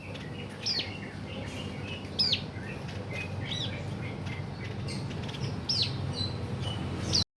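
A bird chirping: a sharp, sweeping call repeated about every second and a half, with softer chirps between, over steady low background noise. The sound cuts off abruptly near the end.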